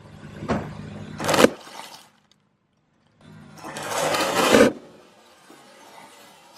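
Things crunching and cracking as a car tyre rolls over them: two sharp cracks in the first second and a half, then a longer crunch that builds and cuts off sharply about two-thirds of the way through.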